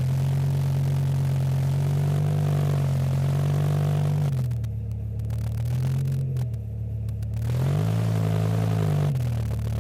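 BMW E60 M5's V10 engine revving through an aftermarket exhaust. The revs are raised and held for about four seconds, let drop, blipped briefly, then raised and held again for about a second before falling back to idle.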